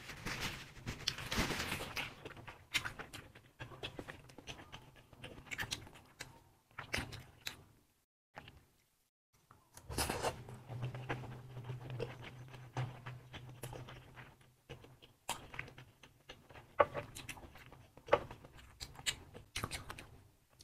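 Close-up eating sounds: a tissue rustling against the mouth, then soft chewing and wet mouth clicks on a sauce-coated sausage. A low hum runs for a few seconds about ten seconds in, and the sounds stop briefly just before it.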